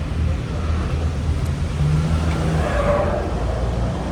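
Steady low rumble of a motor vehicle's engine, with a brief louder, higher swell about two to three seconds in.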